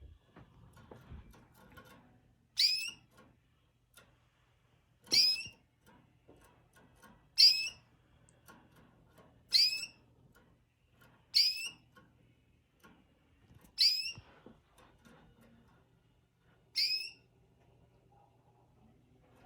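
Pet bird calling: seven short, high-pitched calls about every two to three seconds, each sweeping quickly downward in pitch.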